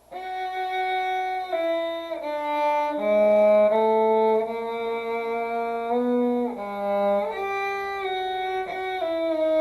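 Violin playing a slow practice passage of sustained, connected bowed notes that include a shift of position, changing pitch every half second to a second.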